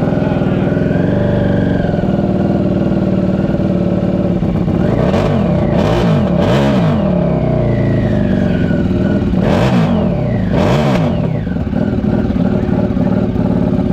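Several motorcycle engines running loudly, with two spells of throttle revving about five and ten seconds in, the engine pitch swinging up and down each time.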